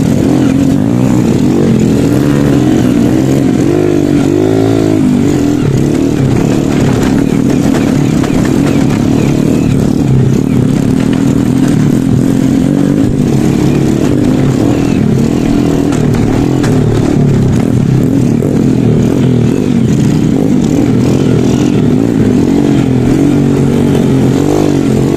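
Honda Supra underbone motorcycle's single-cylinder four-stroke engine running under way on a rough dirt trail, its revs rising and falling again and again as the throttle is worked.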